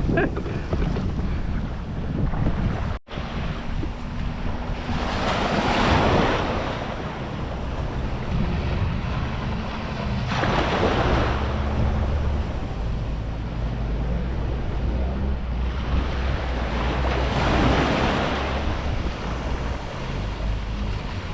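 Wind buffeting the microphone and waves washing, with swells of spray-like noise every few seconds, over the steady low hum of an inflatable boat's Honda BF20 four-stroke outboard motor running. The sound cuts out for an instant about 3 seconds in.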